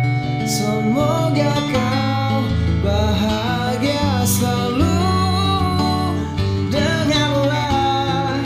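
Acoustic guitar music: the instrumental intro of a song, a picked melody with notes that slide between pitches over sustained low bass notes.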